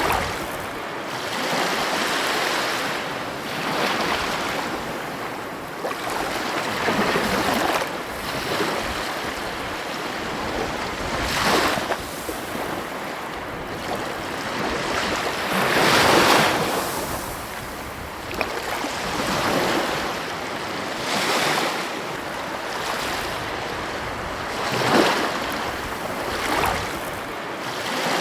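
Ocean waves breaking and washing up the shore in repeated surges every few seconds, the loudest about halfway through, with some wind on the microphone.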